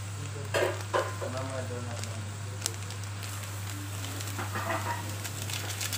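Chicken, onion and green chilies frying in a wok with a steady light sizzle, broken by a few sharp clicks in the first second and again near the middle.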